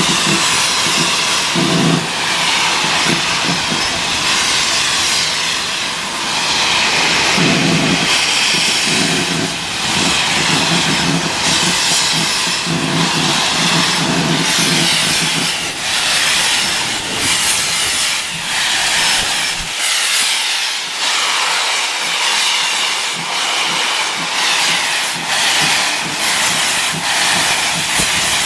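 Steam locomotive working, a regular run of exhaust beats over continuous hissing steam.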